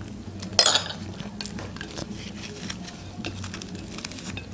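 Close-up chewing of soft herb-filled qutab flatbread: scattered wet mouth clicks and smacks, with one short, louder noisy burst about half a second in, over a low steady hum.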